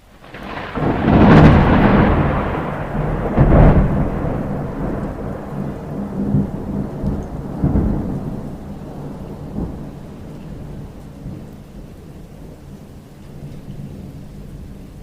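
Thunder: a loud clap just under a second in, a second crack a couple of seconds later, then rolling rumbles that slowly fade, over steady rain.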